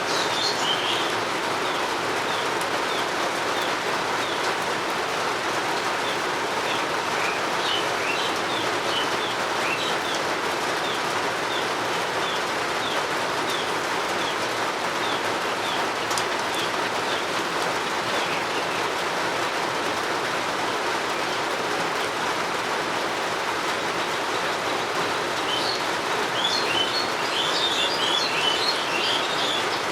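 Steady rain falling, with a bird repeating a short high chirp about twice a second through the first half. Near the end a burst of twittering bird song comes in over the rain.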